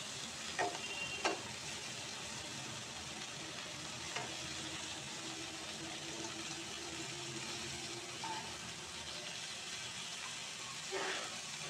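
Cabbage-leaf momo parcels sizzling steadily as they shallow-fry in butter in a non-stick pan. A few sharp clicks and scrapes of metal tongs against the pan as the parcels are flipped, two close together about a second in and another near the end.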